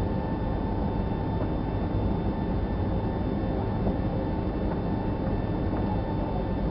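Boeing 757-300 jet engines running steadily: a low rumble with a steady whine above it.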